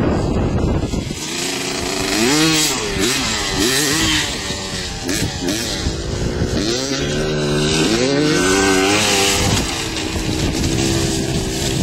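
Motocross dirt bike engine revving, its pitch climbing and dropping again and again as the throttle is worked, then settling into a steadier note near the end. Wind on the microphone at the start.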